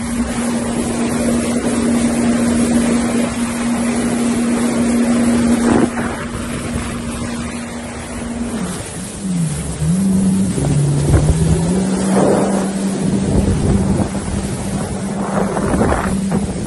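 Jet ski engine running at a steady pitch. About halfway through, its pitch drops and wavers as the throttle is eased and opened again, then it settles at a lower, steady speed, with wind noise on the microphone throughout.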